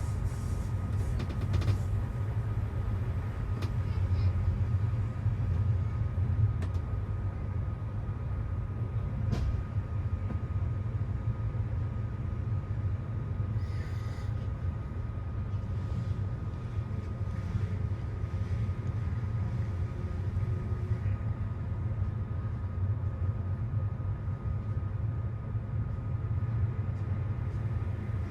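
Steady low rumble of a moving MÁV passenger train, with a faint steady tone above it and a few light clicks.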